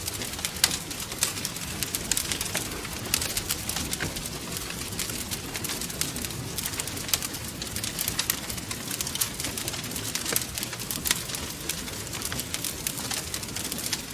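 Wood fire crackling, with frequent sharp pops and snaps over the low steady rumble of the flames.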